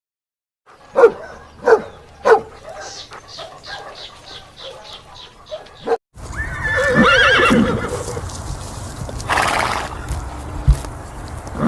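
Horse whinnying: a quavering call that falls in pitch, a little past halfway through. Before it, in a separate clip, come three sharp knocks followed by a fast series of short pulses.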